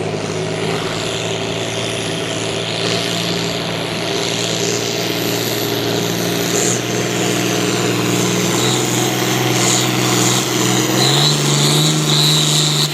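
Farm tractor engine running steadily under load while pulling the sled, its pitch stepping up slightly near the end.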